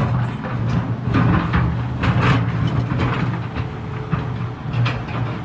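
Volvo EC380EL excavator's diesel engine running steadily under load, with repeated sharp clanks and knocks of rock against steel as it loads rocks.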